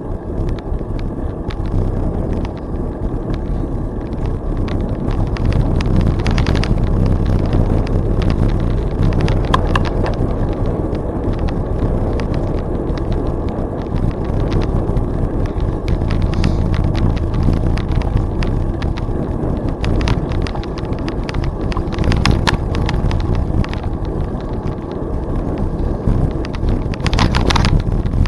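Wind buffeting the microphone of a bicycle-mounted camera while riding, over steady rolling noise from the bike, with scattered short clicks and rattles, one of the louder ones near the end.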